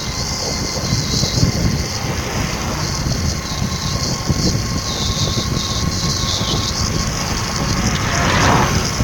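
Steady low rumble and hiss of a running vehicle, with a faint steady whine. A brief swell of hiss comes near the end.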